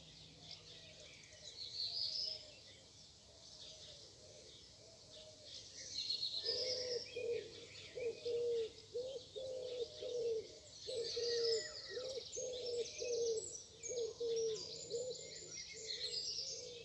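Morning birdsong: several small birds chirp and trill high, and from about six seconds in a lower, louder call repeats about twice a second.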